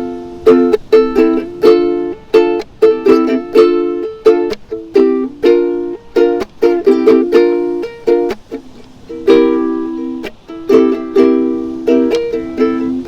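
Ukulele music, plucked and strummed chords in a steady rhythm.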